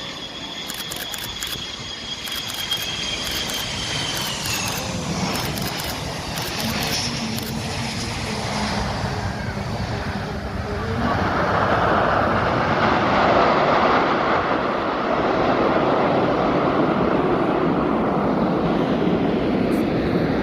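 Aircraft flying past overhead. A high whine drops in pitch about four seconds in, and about eleven seconds in a louder, steady rush of engine noise takes over.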